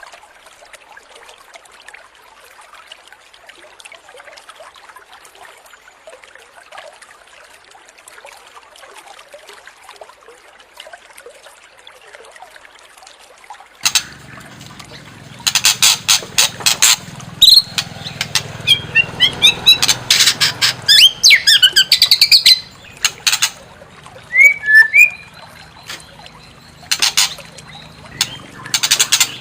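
White-rumped shama (murai batu) song: loud runs of rapid, sharp repeated notes mixed with quick whistled slurs, starting about halfway through after a faint steady hiss, and coming in bursts with short pauses.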